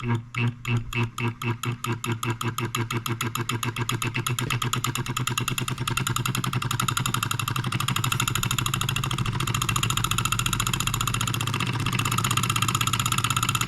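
Wilkemp Jr. Model E electric solenoid engine, a reciprocating toy engine driven by an electromagnet, starting up when switched on. Its strokes come slowly at first and speed up over the first several seconds, then it runs fast and steady, with a steady low hum underneath.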